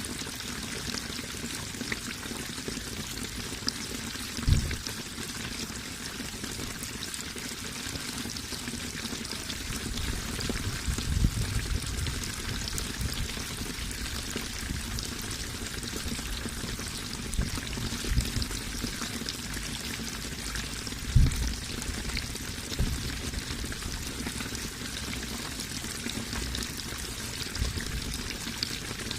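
Running water flowing steadily, with a few short, louder low thumps scattered through it.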